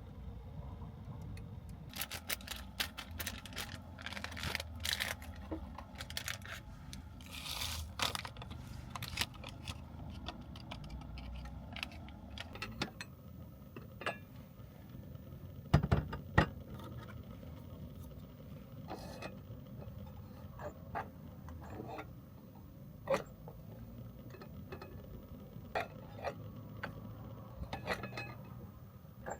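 Objects being handled inside a small vehicle's cabin: irregular clicks, rattles and scrapes, with two loud knocks about halfway through, over a low steady rumble.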